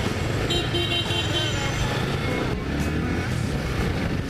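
Yamaha Fazer 250 motorcycle riding through traffic: steady engine and road rumble, with music playing over it. A brief high-pitched tone sounds from about half a second to a second and a half in.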